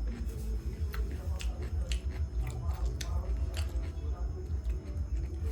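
Close-miked eating sounds: a person chewing and biting into noodles and eggs, with irregular wet mouth clicks over a steady low hum.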